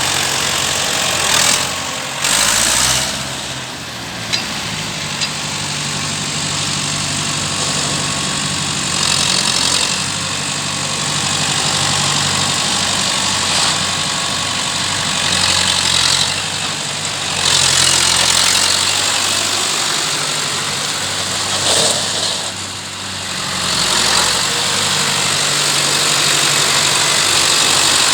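Massey Ferguson 595 tractor's six-cylinder Perkins diesel engine running, mostly at a steady idle, with its note shifting up and down several times.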